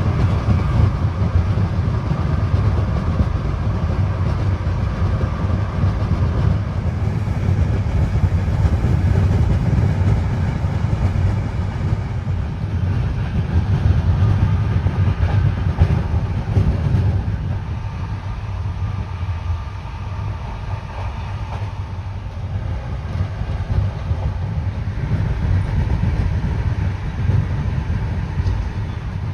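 Rail vehicle running along the track: a steady low rumble.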